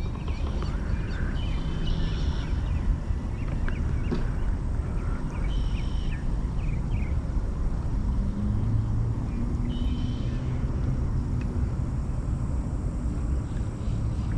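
Birds calling in short bursts, about three times, over a steady low rumble with a faint low hum in the second half.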